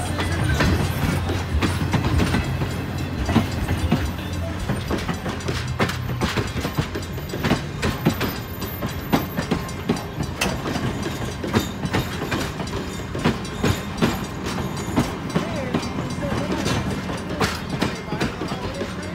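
Canadian Pacific Holiday Train's cars rolling past, their wheels clicking and clacking on the rails in a stream of sharp knocks over a low rumble. The rumble is heavier in the first few seconds.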